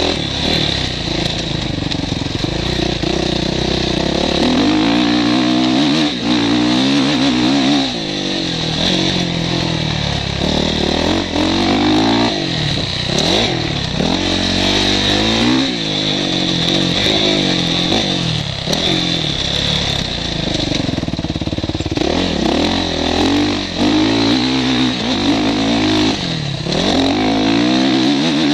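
Motocross bike engine heard from the rider's helmet camera, revving up and falling back again and again as it accelerates and eases off around the track.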